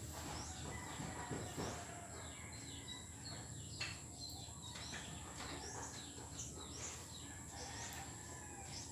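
Birds chirping over and over in short, falling calls. A single faint click sounds about four seconds in as the metal bottom bracket parts are handled.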